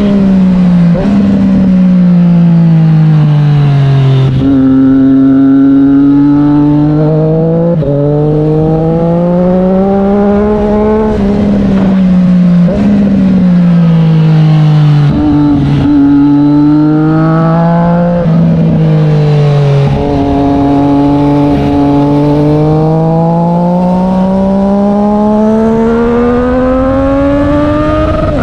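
Triumph Street Triple 765 R inline-three engine running through an SC Project S1 exhaust, its pitch climbing and falling in long sweeps of several seconds, with short breaks at gear changes as the bike is ridden.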